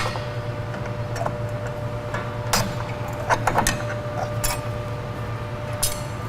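Scattered metallic clicks and taps of a pick and brake spring tool against drum-brake shoe springs and hardware, a few sharper ones about two and a half seconds in and near the end, over a steady low hum.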